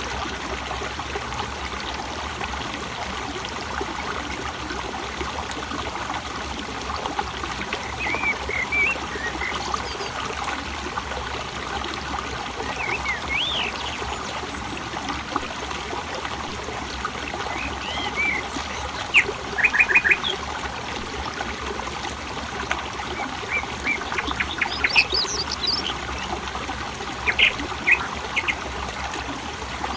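Steady trickle of flowing water, with wild birds chirping and calling now and then from about eight seconds in, including quick runs of short notes.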